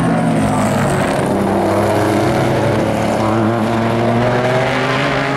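Race car engines running at speed: several engine notes held together, each gliding slowly in pitch as the cars go by.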